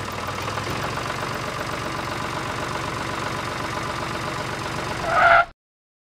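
Steady engine running sound for a miniature toy tractor, even and unchanging. About five seconds in there is a brief, louder two-pitched toot, and then the sound cuts off suddenly.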